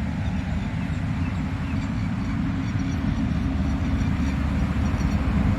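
Steady low rumble of a vehicle driving along, road and engine noise, getting slightly louder toward the end.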